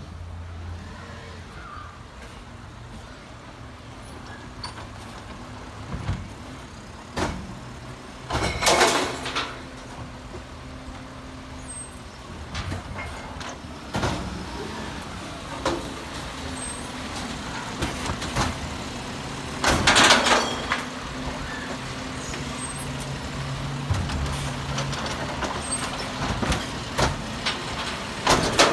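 Garbage truck engine running steadily, with scattered knocks and clunks and two loud hisses, about nine and twenty seconds in.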